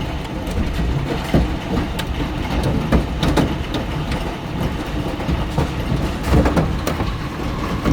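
Large hailstones slamming against windows and roof: a steady, dense clatter with irregular sharp cracks of single big stones striking.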